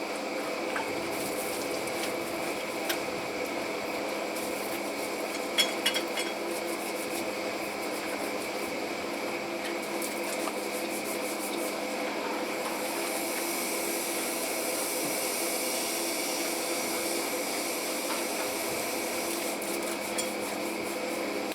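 Machinery running steadily, a continuous drone with several steady tones, with a few short metallic knocks about six seconds in.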